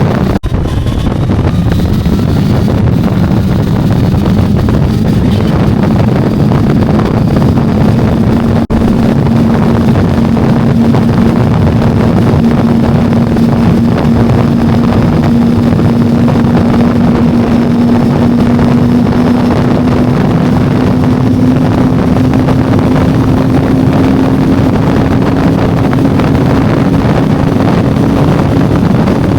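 FZ600 S2 motorcycle engine running on the move, with wind rushing over the microphone. The engine note climbs slowly and steadily as the bike gathers speed.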